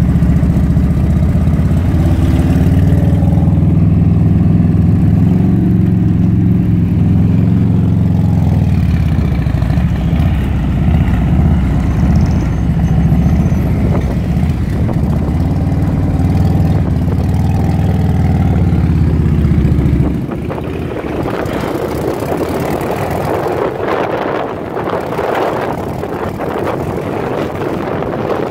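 Motorcycle V-twin engine of a Harley-Davidson Electra Glide running under the rider, its pitch rising and falling with the throttle. About twenty seconds in the engine note gives way to wind rushing over the microphone as the bike rides on.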